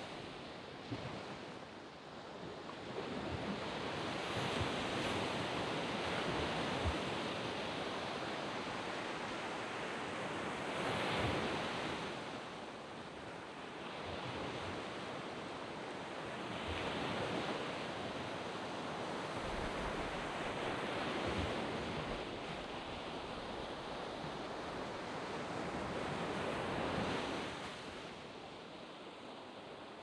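Waves washing onto a sand beach, the surf swelling and ebbing in surges every few seconds.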